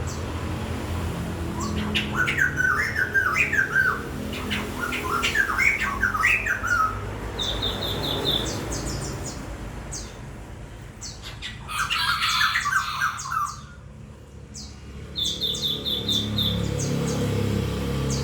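A songbird singing in bursts of quick chattering notes, with short, rapid high trills about eight seconds in and again near the end.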